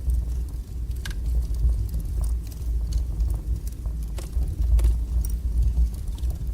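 Wood fire burning strongly in a fireplace: a steady low roar of the flames with scattered sharp crackles and pops from the burning logs every second or so.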